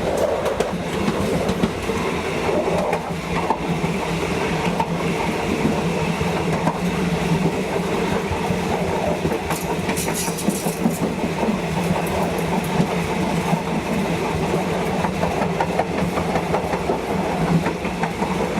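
Train running on the rails with a steady rumble and wheel clatter. A brief high-pitched sound comes about ten seconds in.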